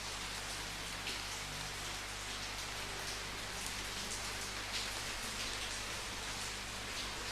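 Steady rainfall, a continuous hiss of falling rain with individual drops pattering on a surface.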